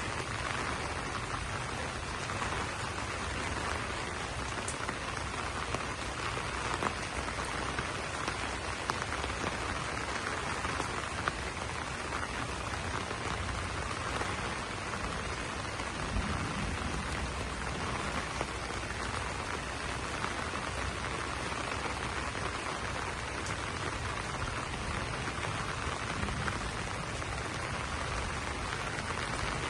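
Steady rain falling on broad banana leaves: a dense, even patter with a few louder single drops.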